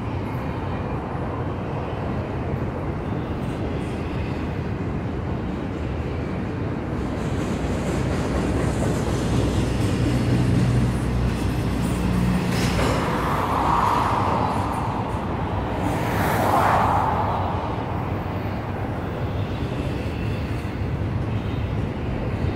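Norfolk Southern freight train rolling past, its railcars rumbling and clattering on the rails steadily, swelling louder a few times a little past halfway.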